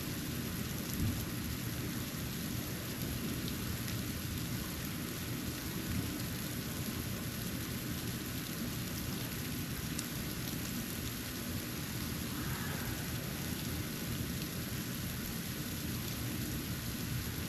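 Snow falling, with faint scattered ticks of flakes landing, over a steady low rumble.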